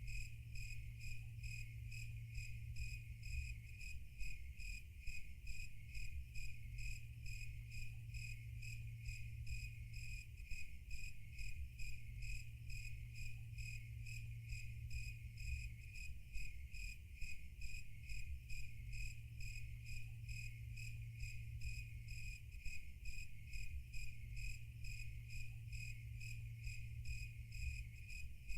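Crickets chirping in a fast, even, unbroken rhythm over a low steady hum: a night nature-sound bed.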